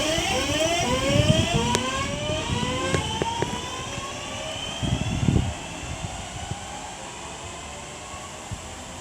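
A pair of Class 323 electric multiple units pulling away, their traction motors giving a whine of several tones that climbs steadily in pitch and fades as the train accelerates off. A few sharp clicks and a short low rumble about five seconds in.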